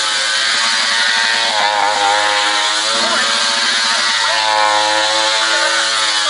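Stunt motorcycle engine held at high revs during a burnout, its pitch wavering up and down as the throttle is worked, over a steady hiss.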